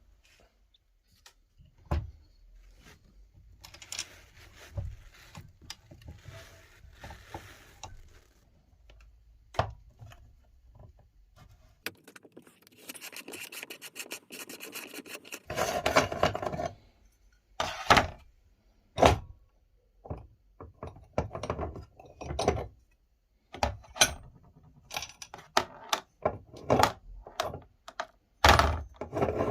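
Glass marbles clicking, knocking and rattling against a meat grinder, with a few seconds of steady scraping a little before halfway and denser clattering near the end.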